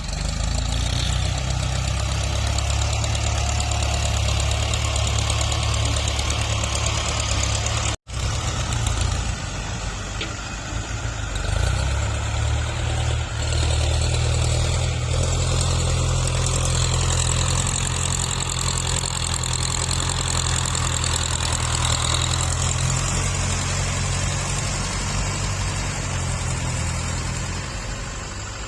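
Tractor engine running steadily with a deep low rumble while grading soil. The sound cuts out for an instant about eight seconds in.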